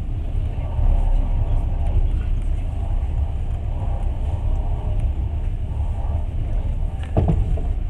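Passenger train running at speed, heard from inside the carriage: a steady low rumble of wheels on the rails, with a sharp knock near the end.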